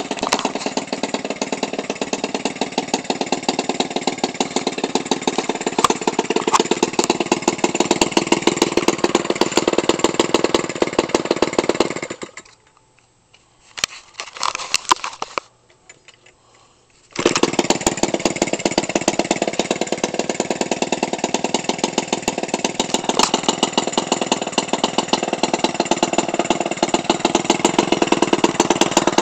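Toro 28cc trimmer engine, converted for RC airplanes, idling at about 1500 RPM with a steady rapid firing beat. About twelve seconds in the sound drops away for roughly five seconds, with one short burst of sound in the gap, then the same idle resumes.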